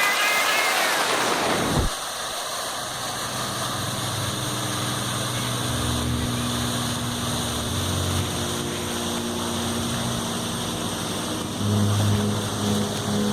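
The last of a song ends with a falling sweep, then a steady rushing noise takes over, with faint low steady tones coming in partway through and growing a little louder near the end.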